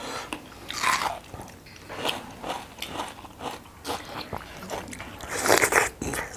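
Close-up eating sounds: a person biting and chewing food, with scattered small clicks and two louder noisy bursts, one about a second in and one near the end.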